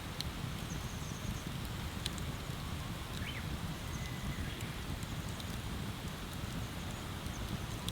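Wood bonfire burning, with scattered sharp crackles and pops over a steady low rushing noise, and a faint short chirp about three seconds in.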